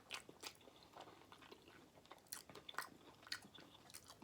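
Faint close-up mouth sounds of someone chewing a mouthful of pasta: soft, irregular wet smacks and clicks.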